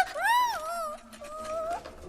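A cartoon bird's high-pitched squeal that rises and falls, then trails off into a wavering held cry.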